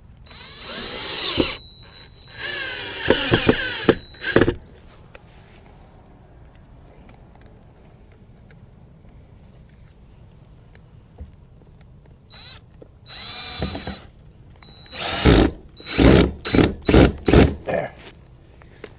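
Power drill running in short bursts: two near the start, one about two thirds of the way in, then a quick run of short pulses near the end, its pitch rising and falling.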